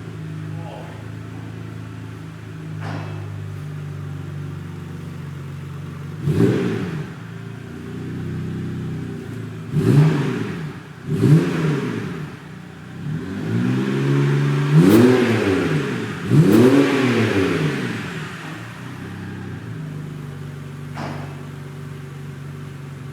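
BMW 630i's N52 3.0-litre straight-six idling through Torqueflow custom twin exhaust mufflers, blipped about six times in quick revs that rise and fall in pitch in the middle before settling back to a steady idle.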